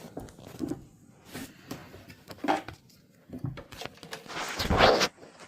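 Scattered small knocks and rustles of objects being handled, with a louder rustle about four and a half seconds in.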